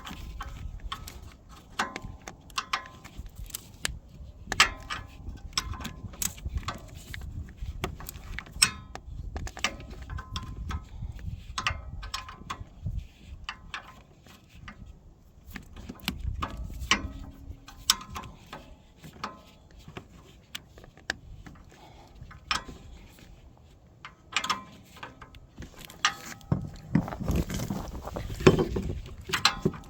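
Hand tools working on bolts: irregular metallic clicks, clinks and knocks of a wrench against bolts and engine sheet metal. A louder low rumble of handling comes near the end.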